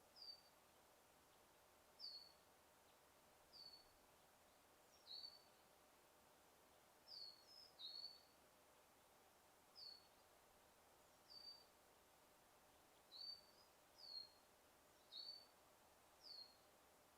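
A bird calling in a forest: short, high chirps that drop in pitch, repeated about every one to two seconds, over a faint steady background hiss.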